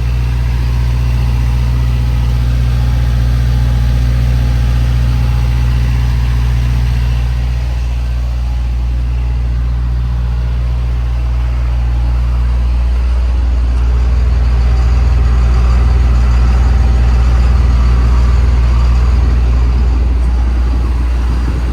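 An engine idling with a steady low drone; the drone shifts slightly about halfway through.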